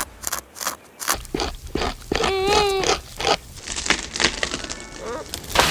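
Beaver gnawing wood: a run of sharp cracking and scraping clicks, with a short wavering whine about two seconds in.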